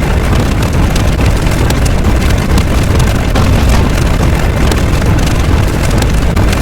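A loud, steady, low rumbling noise with faint crackles, used as a sound effect.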